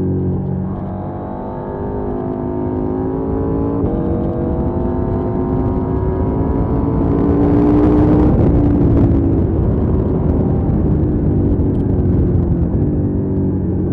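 KTM 790 Duke's parallel-twin engine heard onboard at riding speed: the note drops near the start as the throttle is rolled off, then climbs steadily under acceleration to its loudest about eight seconds in, with a brief rush of wind noise, before easing off again.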